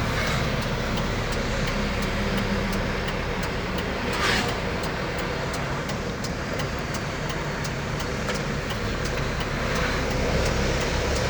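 Large truck's engine running with a steady low drone, and a short hiss about four seconds in.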